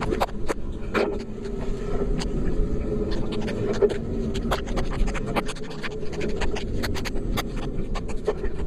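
Raindrops ticking irregularly on a rain cover over the microphone, over the steady rolling hum and rumble of a vehicle on the move.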